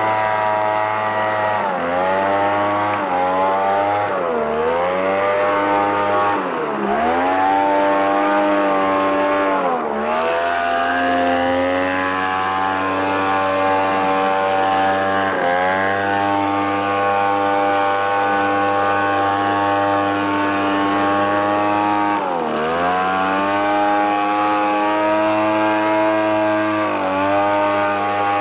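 The small two-stroke petrol engine of a Sadko BLV-260G garden blower-vacuum running at high revs. Its pitch drops briefly and climbs back several times as the throttle is eased off and opened again.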